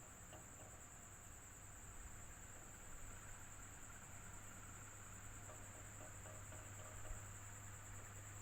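Electric fan running steadily and faintly, a low hum under an even, high-pitched hiss.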